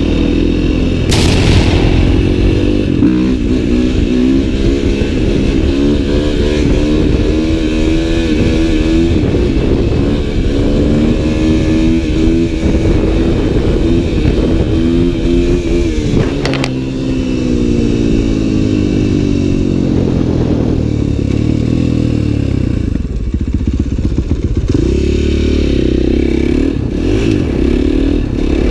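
Dirt bike engine running hard, its pitch rising and falling over and over as the throttle is worked and the gears change. Two sharp clicks cut through, about a second in and again about halfway.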